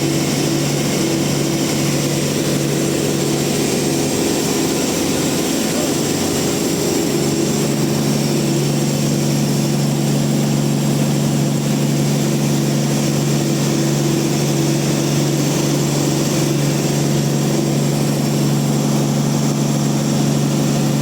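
Large band sawmill running with a loud, steady hum; its tone changes about seven seconds in.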